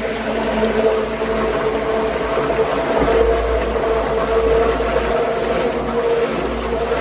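Sewage grinder pump motor running steadily with a hum, the sound holding even throughout.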